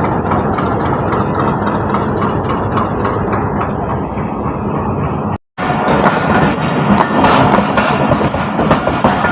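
Train noise at the platform: the locomotive and coaches running and rattling on the track, loud and steady. The sound breaks off completely for a moment about five seconds in, then carries on.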